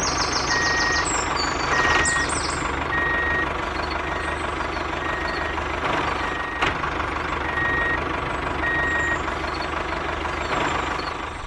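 Vehicle reversing alarm beeping about once a second, over a steady engine rumble.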